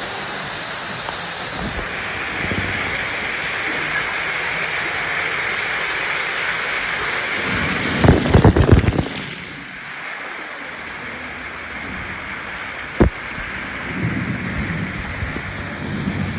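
Steady rush of water noise, with a burst of heavy thumps and buffeting about eight seconds in and a single sharp knock about thirteen seconds in.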